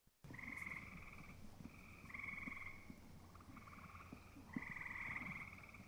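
A chorus of frogs trilling: several rapid pulsing trills of about a second each overlap and follow one another, starting a moment in.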